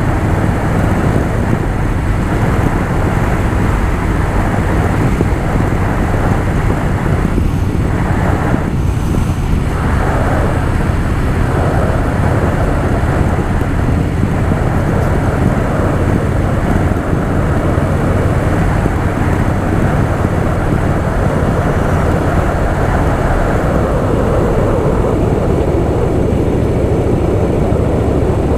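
Harley-Davidson Softail Fat Boy's V-twin engine running steadily at cruising speed, heard from the rider's mic with steady road and wind rush.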